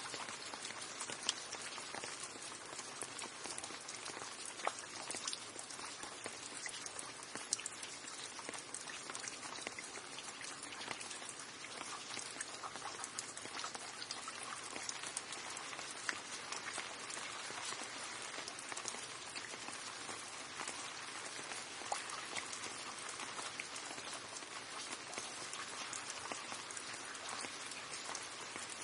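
Steady rain falling, a dense even hiss of drops with a few louder single drop hits standing out now and then.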